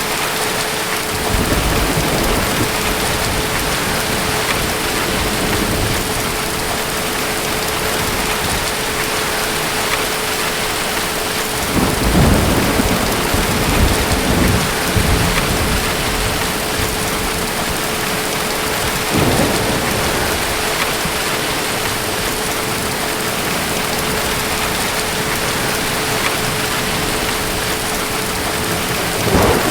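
Steady rain of a thunderstorm with rolls of thunder. There is a short rumble about a second in, a longer, louder one from about twelve to sixteen seconds, a brief one near twenty seconds, and another at the very end.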